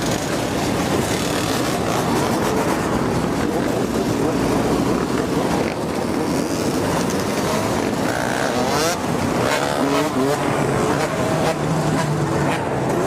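Dirt bike and quad engines revving and passing along a city street, pitch rising and falling most clearly from about eight to ten seconds in, over a steady rush of street and traffic noise.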